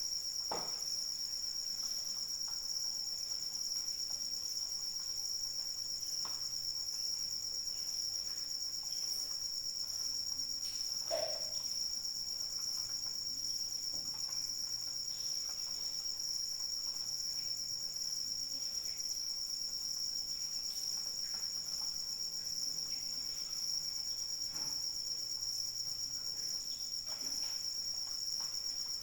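Chorus of crickets trilling steadily in a continuous high-pitched drone, with a few faint soft sounds scattered through it.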